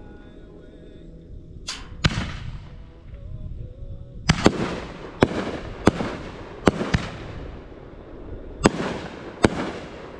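Fireworks going off: about nine sharp bangs at uneven intervals, some in quick pairs, each trailing off in a fading hiss.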